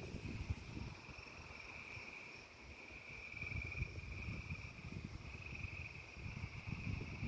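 Dense chorus of frogs calling, a steady high-pitched trill without pause, over an uneven low rumble that grows louder toward the end.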